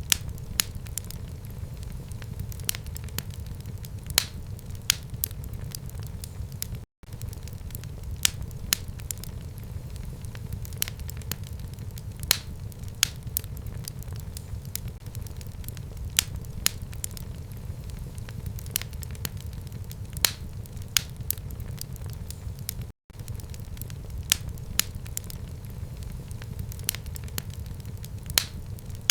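Fire burning in a home fireplace: a steady low rumble with frequent irregular sharp crackles and pops, a few each second. The sound drops out to silence twice for a split second.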